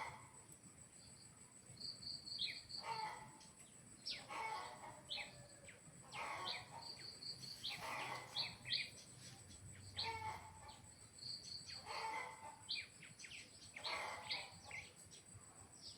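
Birds chirping and calling over and over, with quick runs of high notes and short falling whistles in clusters about every two seconds, over a steady high-pitched whine.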